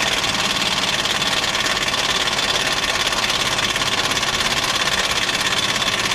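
Power impact wrench hammering steadily with a fast, even rattle on a stuck fastener that won't break loose.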